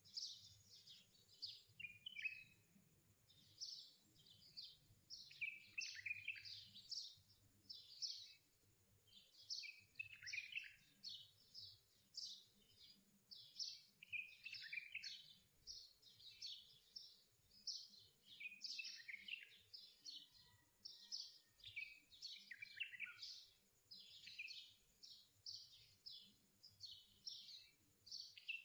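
Birds chirping and singing, a continuous stream of short, quick, falling chirps.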